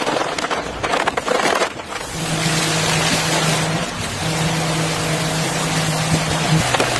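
A motor running with a steady low hum over a rushing noise, its pitch dropping near the end, after a couple of seconds of crackling clicks.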